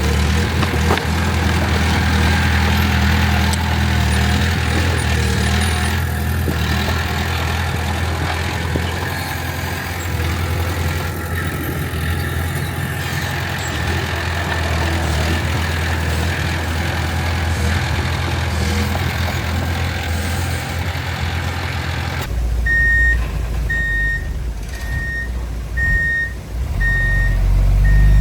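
Furukawa D2 bulldozer's diesel engine running steadily under work, with clattering mechanical noise. About 22 seconds in, this gives way to a dump truck reversing: its backup alarm beeps steadily about once a second over the deep rumble of its diesel engine.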